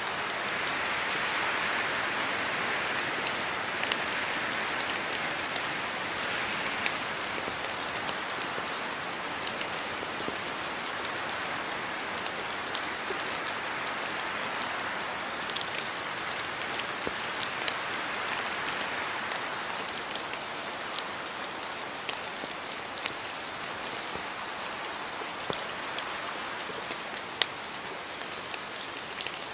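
Steady rain falling and splashing on surfaces: an even hiss with many scattered sharp drop ticks.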